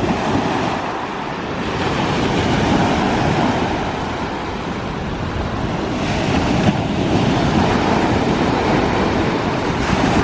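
Sea waves breaking and washing on a pebble beach, swelling and easing over several seconds, with some wind on the microphone.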